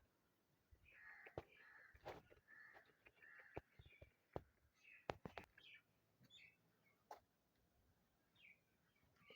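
Faint, short high-pitched animal calls, several in a row in the first few seconds and scattered after, with sharp clicks in between.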